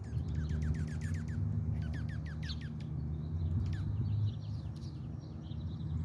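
A songbird singing two quick runs of short, falling notes, about eight a second, over a steady low rumble.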